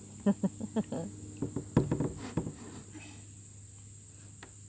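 Steady high-pitched drone of insects, with a quick run of short knocks and taps in the first couple of seconds.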